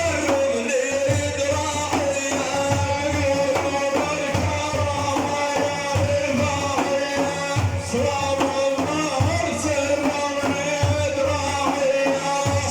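Arabic folk band music, instrumental: a melody running over a held drone note, with a steady low drum beat.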